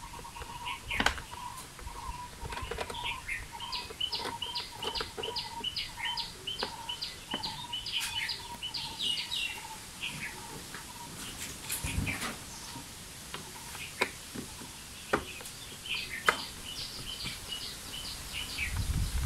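A bird chirping in quick runs of short repeated notes, about three a second, twice. Scattered sharp clicks and taps come from a screwdriver working the screws of the scooter's plastic meter cover.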